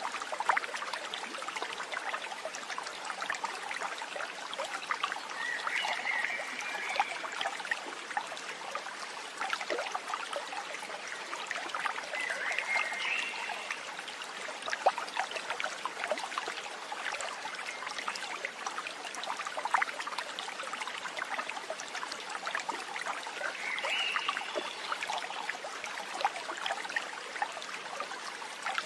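Running water of a small stream trickling steadily, with a brief higher call heard three times over it.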